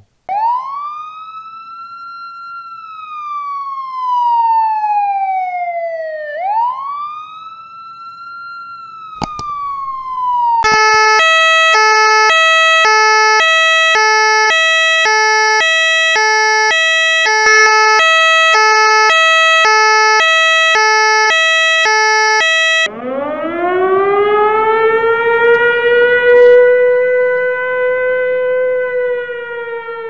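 A run of emergency-vehicle sirens. First, a slow wail rising and falling twice. From about ten seconds in, a French fire engine's two-tone hi-lo siren alternates about once a second. Near the end comes a siren that winds up slowly and holds, with a low rumble beneath it.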